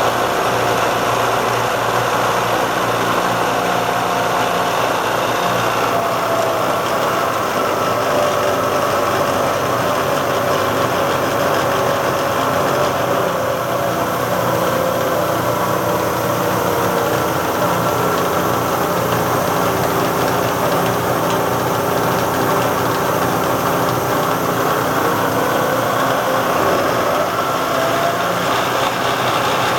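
Bridgeport J-head vertical milling machine's 2 hp motor and belt-driven spindle running steadily, with the quill power feed engaged. Higher tones in the running sound slowly drift down in pitch and back up near the end.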